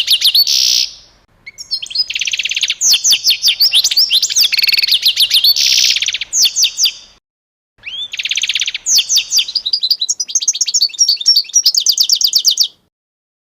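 A songbird singing loud, fast, high chirps and trills in three long phrases, with two short pauses between them. The song stops abruptly shortly before the end.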